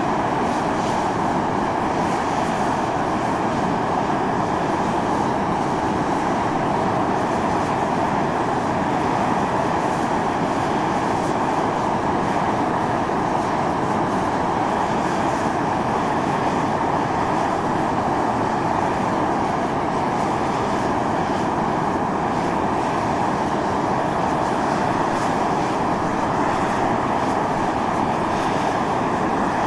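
Volcanic fumarole vents steadily jetting steam and gas with a constant loud rushing hiss, strongest in the middle range, unchanging throughout.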